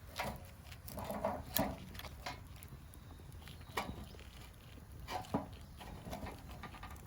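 Irregular knocks and sharp clicks, about ten of them. The loudest come about a second and a half in and again near five and a half seconds.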